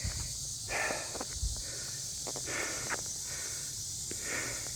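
A man's heavy breathing close to the microphone, three breaths about a second and a half to two seconds apart, over a steady high-pitched chorus of cicadas.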